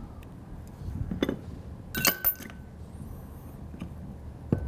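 Small metal valve parts being handled: a few light clinks and knocks, one about a second in, a quick cluster of clinks with a brief metallic ring about two seconds in, and another clink near the end.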